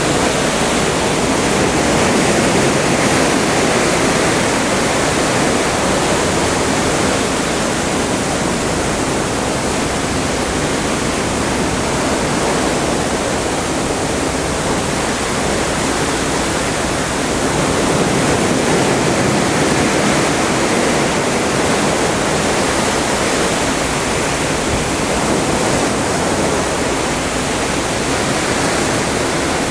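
Atlantic Ocean water rushing along a moving cruise ship, a steady loud rush of sea that swells and eases slowly.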